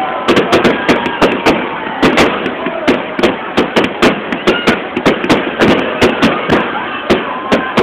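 Aerial fireworks bursting in a rapid, irregular series of sharp bangs, about three a second, with a continuous din between them.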